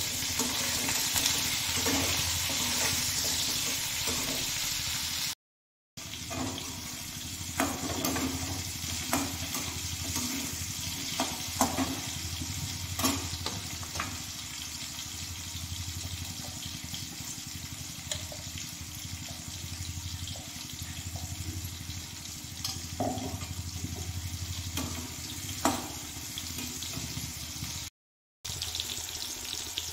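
Spiny gourd (kakora) pieces sizzling steadily as they fry in oil in an aluminium kadhai. A slotted metal spoon clicks and scrapes against the pan now and then as they are stirred. The sound drops out briefly twice.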